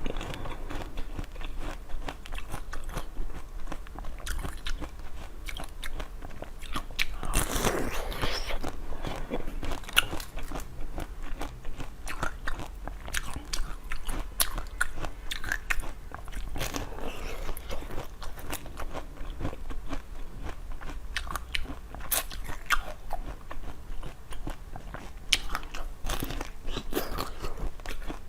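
Close-up biting and chewing of crunchy food, a dense run of sharp, crisp crunches that keeps going throughout.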